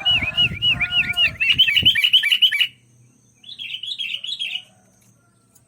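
Sooty-headed bulbul singing a fast run of bubbly, arched whistled notes for almost three seconds, then a shorter phrase of about a second. A low rumble runs under the first two seconds.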